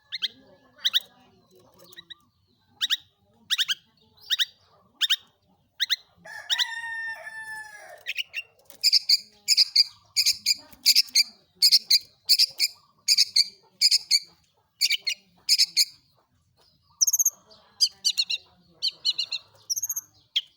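Long-tailed shrike (cendet) singing: a string of sharp, high 'toet' notes about once a second, then a drawn-out harsher call about six seconds in, then a fast run of paired notes about two a second, and varied notes near the end.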